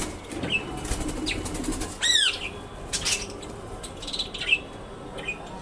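Caged birds chirping: about six short arching chirps, the loudest about two seconds in, mixed with brief bursts of wing flapping.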